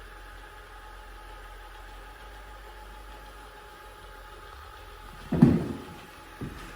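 SilverCrest robot vacuum running with a steady motor hum and whine. About five and a half seconds in there is a loud thump, and a smaller knock about a second later.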